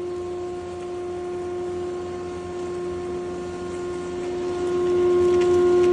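Multipurpose grinder machine running at steady speed with a constant pitched motor hum, getting louder about five seconds in.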